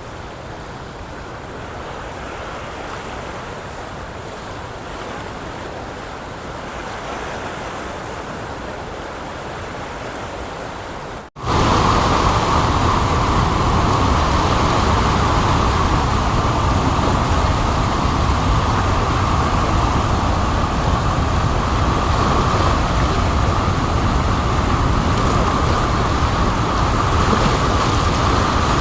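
Steady rush of water released through the open spillway gates of a dam. About eleven seconds in it cuts abruptly to a louder, closer rush that continues to the end.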